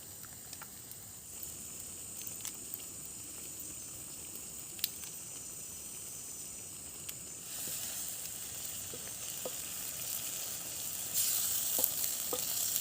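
Food cooking in a pot on the camp fire: a steady hiss that grows louder about seven and a half seconds in and again near the end, with a few light clicks.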